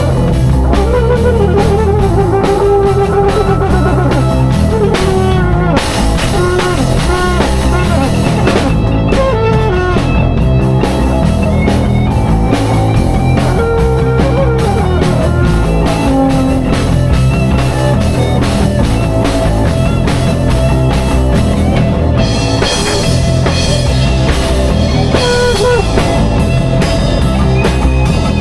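Live improvised rock jam: a drum kit keeps a steady beat under guitar lines, with wavering, bent notes in the first few seconds.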